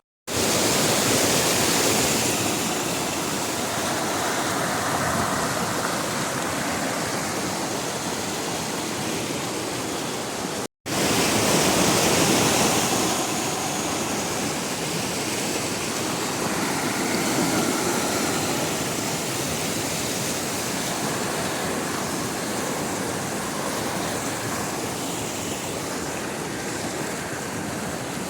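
Steady rushing of flowing water, like a forest stream or small waterfall, cut off for a split second about a third of the way through and then resuming.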